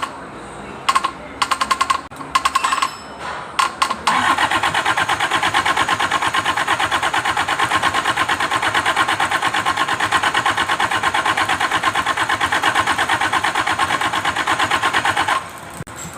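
Kubota V1501 four-cylinder diesel engine being started: several short bursts of fast, even pulsing in the first few seconds, then a steady run of about eleven seconds that cuts off suddenly near the end.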